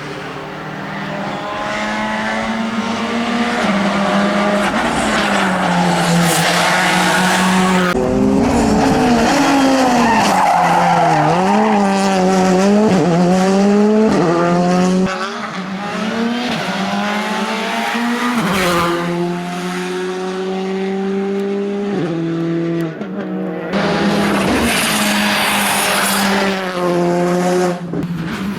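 Rally car engines revving hard and dropping in pitch again and again through gear changes as the cars pass, with tyre squeal and skidding. The sound changes abruptly a few times, as from one passage to the next.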